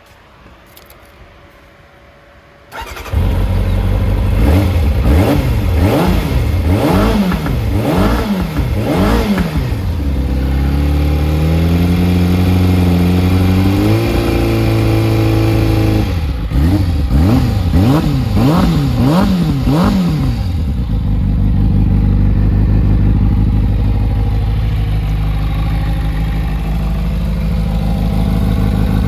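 Kawasaki ZZR400's inline-four engine, breathing through an aftermarket Asahina Racing slip-on muffler, starting up about three seconds in. It is then revved in a run of quick blips, held steady at raised revs, blipped again, and settles to a steady idle for the last several seconds.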